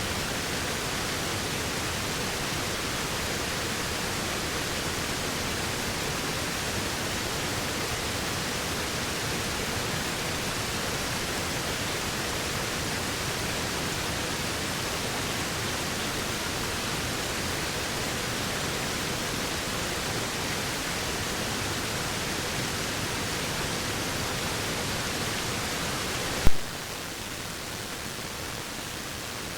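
Waterfall rushing with a steady, even noise. Near the end a sharp click cuts in, after which the rush continues slightly quieter.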